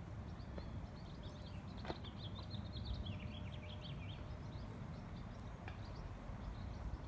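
Small birds chirping, a quick run of high twittering chirps in the first half, over a steady low outdoor rumble like wind on the microphone.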